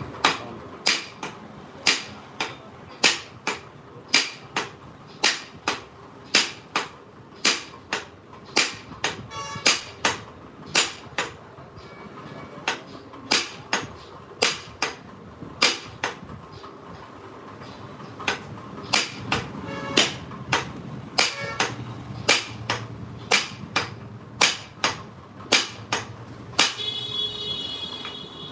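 Repeated sharp hammer strikes on metal, roughly one to two a second with short pauses, some with a slight ring. Near the end a brief ringing tone sounds.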